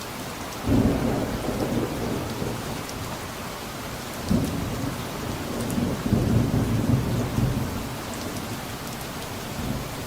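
Steady rain with distant thunder: a sudden low rumble starts under a second in and fades over a few seconds, and a second longer rumble begins around four seconds in and dies away near the end.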